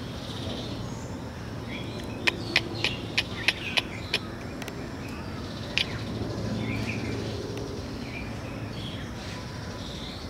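Birds chirping intermittently in the background, with a quick run of about seven sharp clicks a little over two seconds in and one more click near six seconds.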